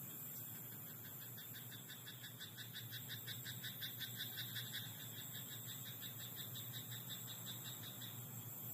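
A frog in a rice paddy croaking one long, rapid pulsing call that swells, then fades and stops near the end, over a steady high hiss.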